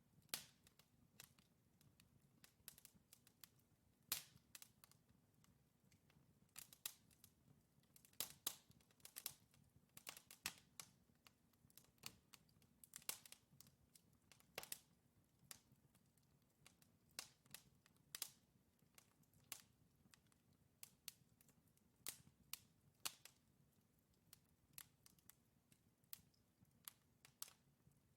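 Wood fire crackling: burning logs giving off many sharp, irregular pops and snaps, clustered more thickly in places, over a faint low rumble of the flames.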